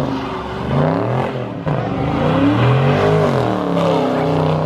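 A performance car's engine revving hard, its pitch climbing and dropping several times.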